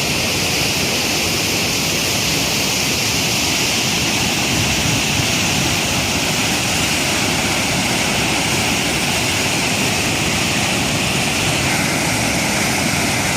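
Fast-flowing floodwater rushing, a loud steady noise with no break.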